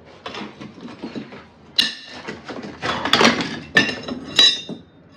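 Metal demolition tools knocking and clinking against the bricks and mortar of a fireplace front being taken apart, with several sharp ringing strikes about two, three, four and four and a half seconds in.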